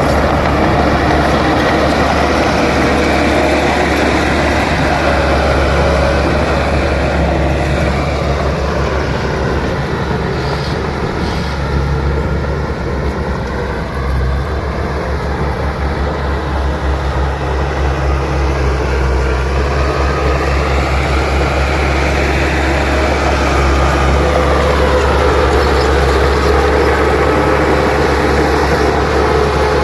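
Bulldozer's diesel engine running under load, with the clatter of its steel tracks; the engine note sags and climbs back twice.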